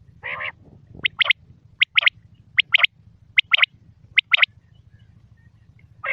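Male common quail (batair) song: a short nasal growling note, then the sharp three-note "whit wit-wit" call repeated five times in a steady rhythm. Another growling note follows near the end.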